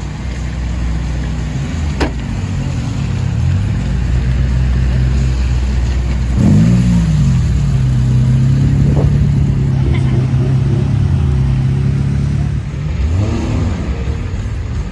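Car engines idling, with a quick rev blipped up and back down about six seconds in and again near the end, and one engine held at a steady higher note in between. A short sharp crack comes about two seconds in.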